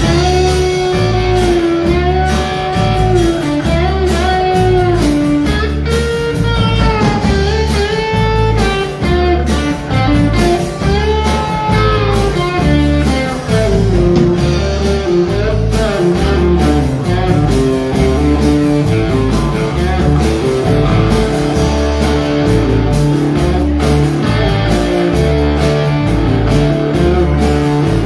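Live blues-rock band playing an instrumental passage: an electric guitar lead with bent, gliding notes over a steady bass pulse, moving to quicker runs of notes about halfway through.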